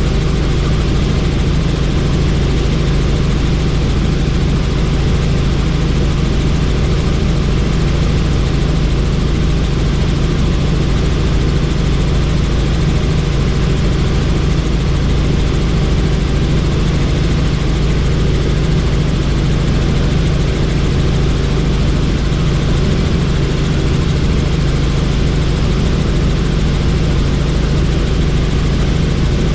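Helicopter in flight: a steady drone of rotor and engine, unchanging throughout.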